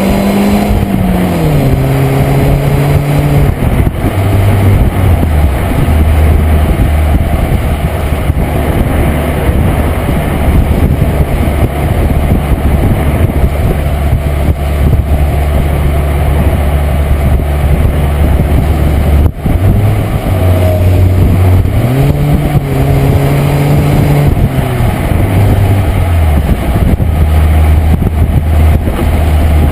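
VW Fox 1.0's four-cylinder engine and exhaust running. The engine note falls in steps over the first few seconds, holds steady for a long stretch, then climbs and drops again a little past the middle.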